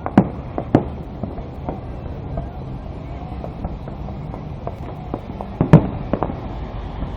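Fireworks going off: scattered sharp bangs and smaller pops, with two loud bangs in the first second and the loudest bang a little before six seconds in.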